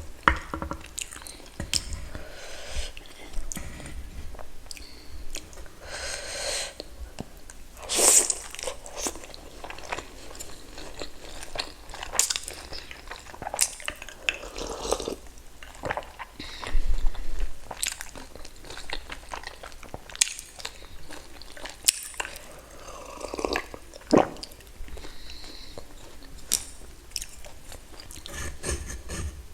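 Close-miked eating sounds: biting and chewing pork dumplings and pork ribs, with wet mouth clicks and smacks at irregular intervals and louder bites now and then.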